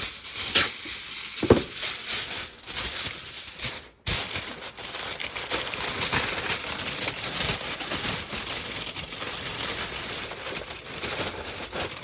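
Aluminium foil crinkling and rustling with many small irregular crackles as it is pressed down over a pan, with a brief break about four seconds in.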